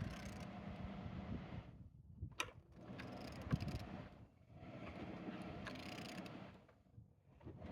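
Renault K9K 1.5 dCi diesel engine being turned over by hand, in three long turning strokes with short pauses and a sharp click between them. The crankshaft turns freely.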